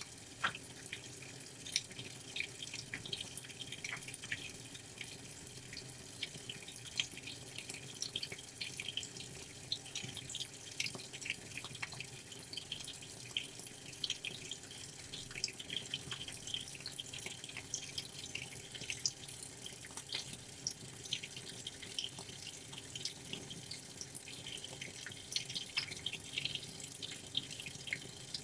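Washing machine mid-wash: water sloshing and splashing in the drum, with many small irregular splashes and drips over a steady low motor hum.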